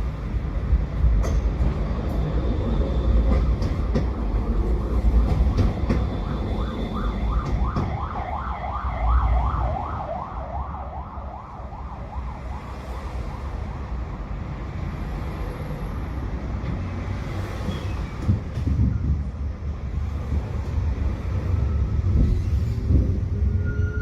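Tram running on its rails with a steady low rumble. For a few seconds near the middle a rapid warbling, up-and-down tone rides over it. The rumble eases briefly, then a rising whine from the traction motors comes in near the end as the tram picks up speed.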